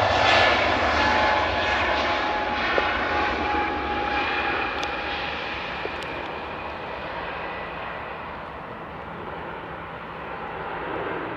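EasyJet Airbus A320-family jet airliner taking off and climbing away: a steady jet engine roar with a thin whine on top, fading gradually as it recedes.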